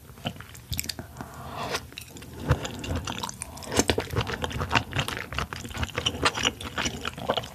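A person chewing a mouthful of large raw oyster, with many quick, irregular mouth clicks.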